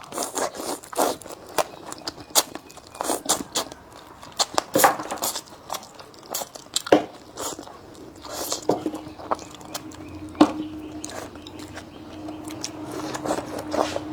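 A person biting and chewing crispy food close to the microphone, with irregular sharp crunches and clicks. A steady low hum comes in about halfway through and continues.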